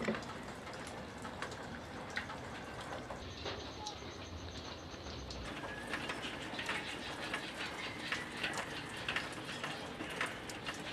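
Birds calling over scattered light clicks and taps, which come more often in the second half.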